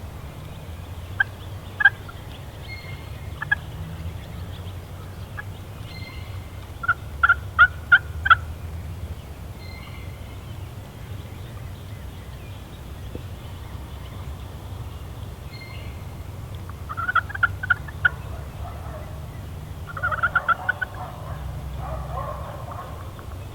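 Wild turkeys calling: a few single notes, then short runs of four or five quick yelp-like notes, the runs several seconds apart, the last one rougher and fuller like a gobble.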